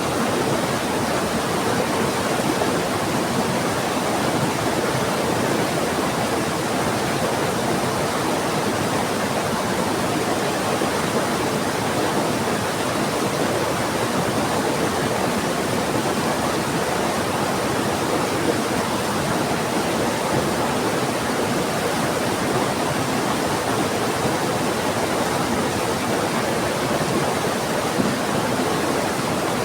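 Heavy rain and a rushing river: a steady, unbroken rush of water.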